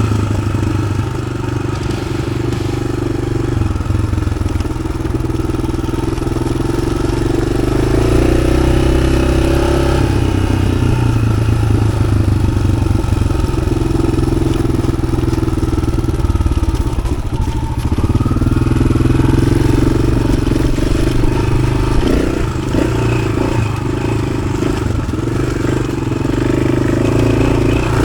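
Yamaha XT600's single-cylinder four-stroke engine running under way through an Arrow aftermarket exhaust, its revs rising and falling with the throttle, with a dip and then a climb about two-thirds of the way through.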